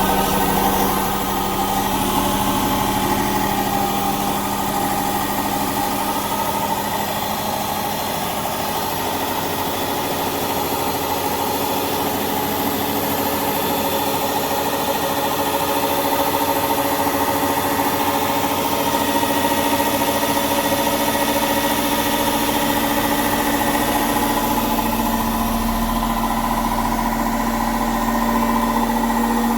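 Indesit 9 kg 1400-spin washing machine running with its covers off: the motor, belt and drum pulley turning with a steady mechanical hum. About 25 seconds in the hum's pitch steps up a little and a deeper rumble joins it.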